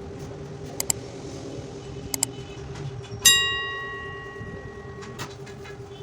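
Small metal clicks, then a metal object struck once with a clear bell-like ring that dies away over about two seconds and is stopped by a click, over a steady low hum.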